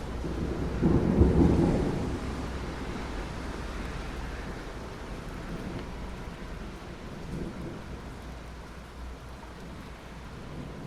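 Steady rain with a rumble of thunder about a second in, loudest there and dying away over the next second or so.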